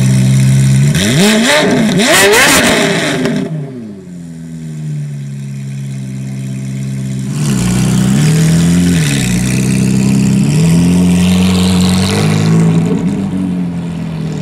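Decatted Ferrari F430 Spyder's V8, with its catalytic converters removed, heard from behind the exhaust. It holds steady revs, then gives a few quick sharp blips about a second in and drops back to a quieter idle near four seconds. From about seven and a half seconds it rises and falls through another series of revs.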